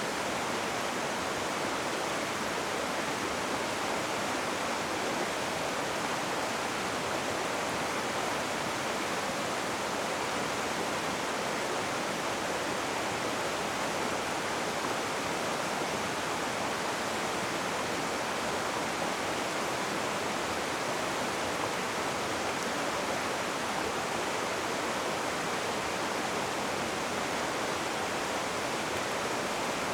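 Rushing river water: a steady, even roar of flowing water with no breaks or changes.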